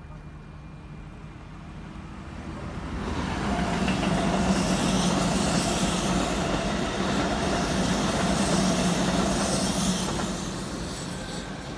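Keikyu 1500 series electric commuter train passing close by, its wheels and motors on the rails growing louder from about two seconds in, staying loud through the middle and fading near the end.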